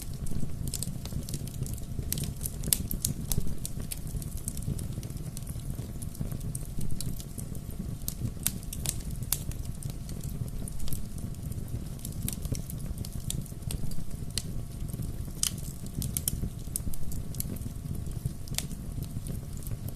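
Bonfire crackling: irregular sharp pops and snaps, several a second at times, over a steady low rumble of the flames.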